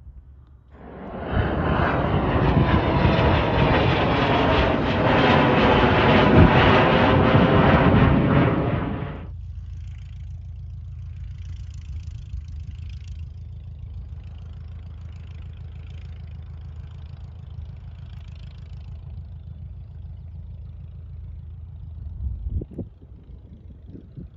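Light aircraft engine and propeller running loud and close for about eight seconds, then cutting off abruptly. A quieter, steady low rumble follows, with a couple of short bumps near the end.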